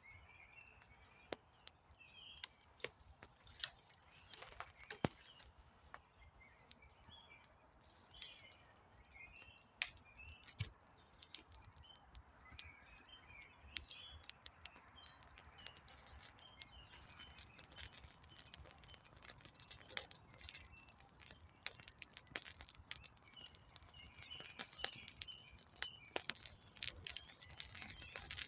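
Wood campfire crackling, with frequent sharp pops and snaps, while small birds chirp and sing in the background.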